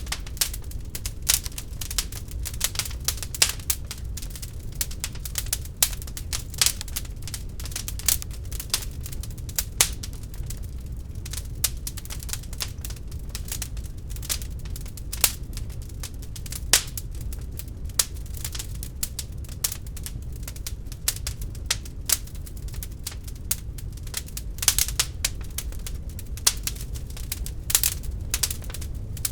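Wood fire burning in an open fireplace: irregular sharp crackles and pops over a steady low rumble of the flames.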